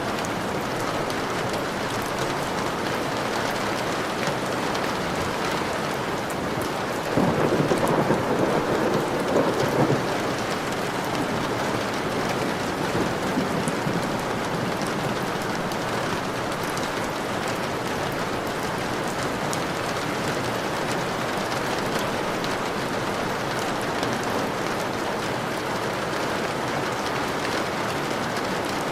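Steady heavy rain with a rumble of thunder rolling in about seven seconds in and lasting a few seconds, then a fainter rumble a few seconds later.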